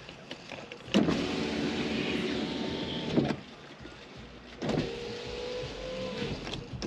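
Nissan Maxima's electric power window motor running twice, each run lasting about two seconds with a steady whine; the first ends in a sharp clunk as the glass stops.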